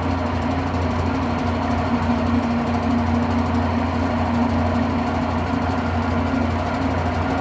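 Electrolux Turbo 8 kg (LM08) washing machine in its spin cycle, the motor and drum running steadily with a constant low hum.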